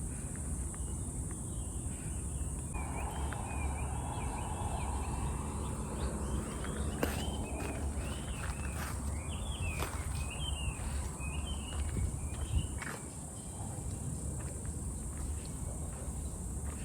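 Woodland ambience: insects buzzing steadily at a high pitch, with a bird giving a run of short chirping calls from about three seconds in until about twelve seconds, and a few footsteps on the trail.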